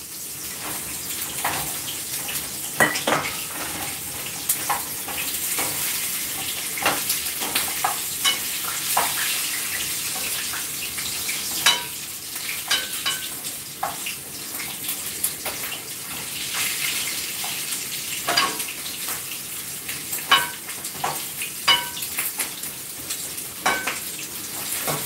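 Pork ribs sizzling as they fry in a frying pan, a steady high hiss with scattered clicks and scrapes of a turner against the pan.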